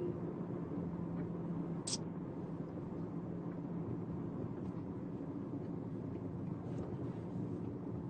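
Steady engine and road noise heard from inside a moving car, with one short high click about two seconds in.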